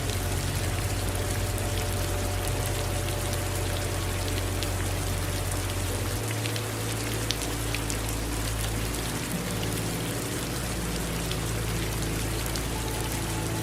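Steady rain falling, with individual drops ticking sharply among the even hiss. A low rumble runs underneath and changes about halfway through.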